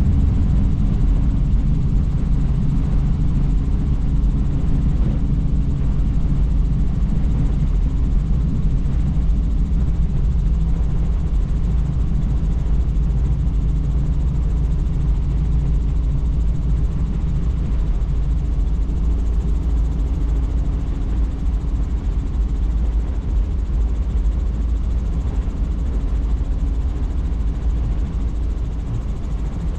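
Helicopter in flight: a steady, loud drone of rotor and engine, heaviest in the low range with a few steady humming tones, easing off slightly near the end.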